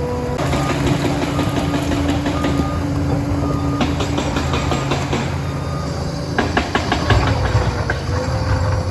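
Liebherr 746 crawler dozer's diesel engine running steadily under load, with a rapid clanking and rattling of its steel tracks that grows heavier about six and a half seconds in.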